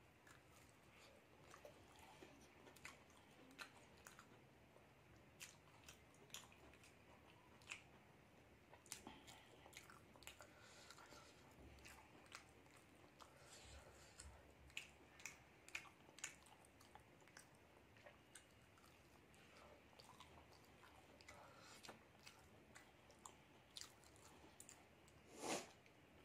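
Faint close-up chewing and biting of a fried egg devil, with many short sharp ticks from the mouth scattered through and one louder sound near the end.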